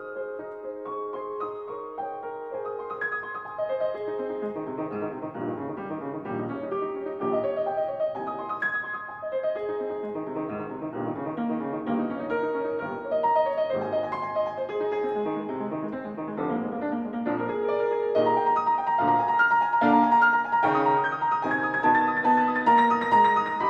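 Background music: solo piano playing a flowing run of notes that grows louder toward the end.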